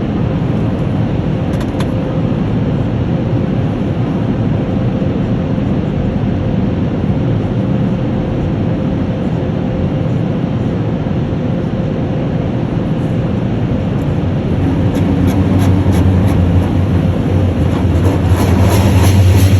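Automatic car wash machinery running: a steady, loud rumble of motors and water that grows louder with a deep hum in the last few seconds.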